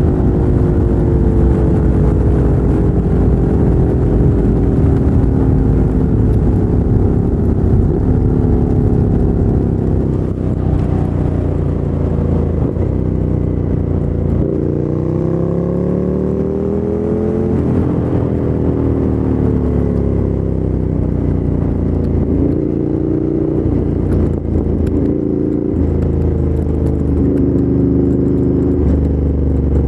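A Ducati Monster 797's air-cooled L-twin running through a LeoVince LV-10 exhaust while riding. The engine note sinks slowly as the throttle is rolled off, climbs and drops again about halfway through, and shifts up and down in short steps through the last few seconds.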